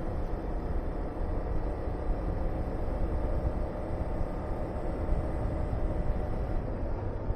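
Honda VTR250's 250 cc V-twin engine running at a steady cruise on a motorcycle, with wind rushing over the helmet-mounted microphone.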